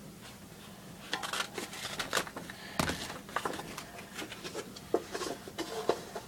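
Scissors cutting a paper folder: a string of irregular snips and rustles, starting about a second in.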